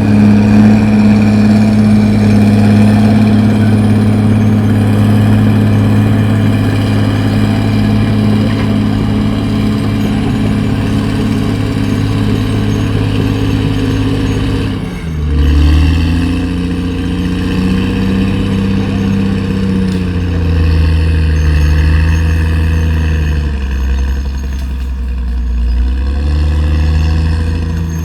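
CAT D6R XL bulldozer's diesel engine running steadily as it works. About halfway through the engine note drops suddenly, then rises and falls.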